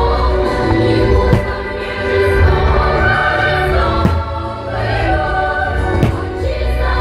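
Loud choral music with a deep bass playing over the fireworks show's sound system, with about three sharp firework bangs cutting through it.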